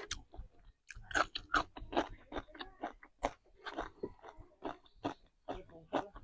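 Close-miked chewing of a mouthful of rice and raw green chili: wet, crunchy mouth sounds and lip smacks coming irregularly, several a second, with a brief pause about a second in.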